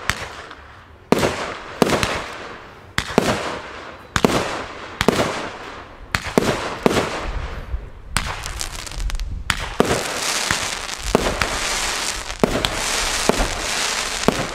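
Lesli 'Cupido' fireworks battery firing: sharp shots about once a second, then from about ten seconds in a dense, rapid crackling with scattered pops as the finale shots go off.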